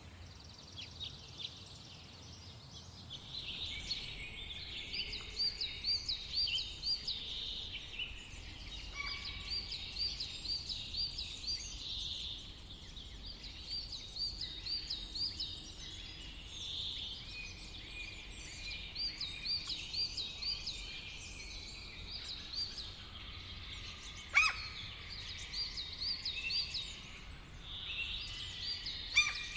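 Woodland songbirds singing, one repeating a short, quick run of rising-and-falling notes every four or five seconds while others call more thinly underneath, over a low steady background hiss. A single sharp click about three-quarters of the way through.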